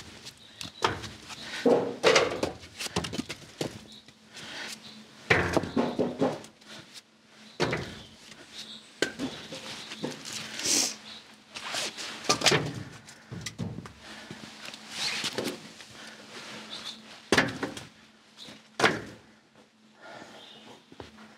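A series of irregular knocks and thuds, a few seconds apart and some in quick clusters, like objects being handled and set down.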